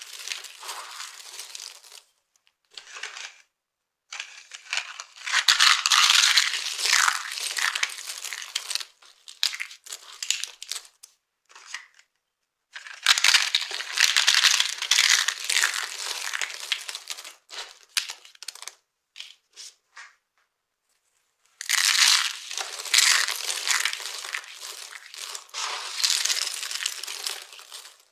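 Dry soap being crushed, crunching and crackling in bursts of several seconds with quiet pauses between.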